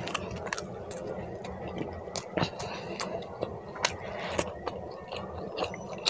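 Close-miked chewing of chicken curry and roti eaten by hand: a run of irregular mouth clicks and smacks over a steady low background.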